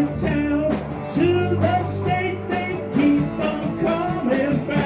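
Country rock-and-roll band playing an instrumental break: a lead melody line over guitar and a steady beat.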